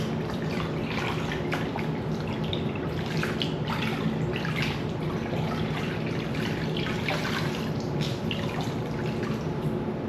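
Water running from a tap into a sink, with irregular splashing throughout.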